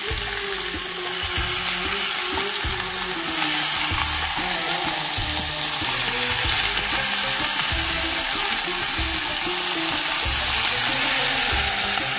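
Sliced onions and browned lamb shanks sizzling in oil in a cast iron tagine base on lowered heat, while a wooden spatula stirs and scrapes through them. The sizzle grows louder about three and a half seconds in.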